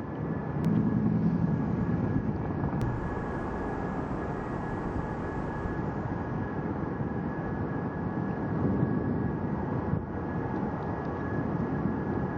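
Jet airliner engines running: a steady rush of noise with a thin, high, steady whine. It is a little louder for a couple of seconds near the start.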